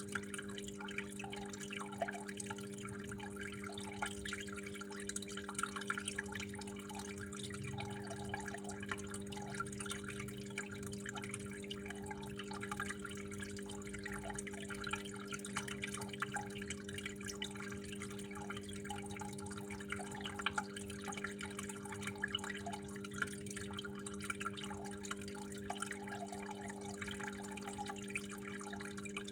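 Water trickling and dripping continuously, an irregular patter of small splashes, over a steady low hum.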